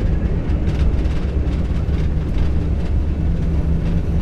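Airbus A320 accelerating down the runway at takeoff thrust, heard inside the cockpit: a loud, steady low rumble of engines and wheels on the runway, with repeated light thumps from the landing gear.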